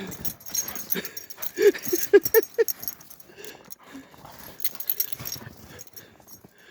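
German Shepherd dog whimpering, with a quick run of about five short high whines a second and a half to two and a half seconds in.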